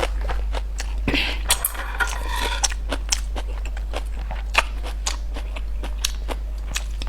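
Close-miked eating: a person chewing and crunching food, with many irregular sharp clicks, over a steady low hum.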